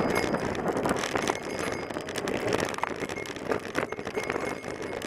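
Traffic and wind noise on the microphone of a camera riding on a bicycle in the road, with scattered small clicks and rattles.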